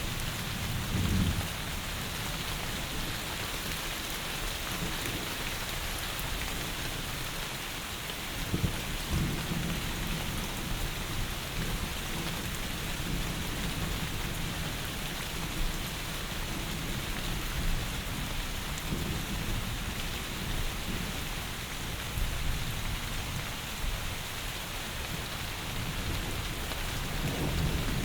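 Heavy rain pouring steadily, with low rumbles of thunder about a second in, around nine seconds in and again near the end.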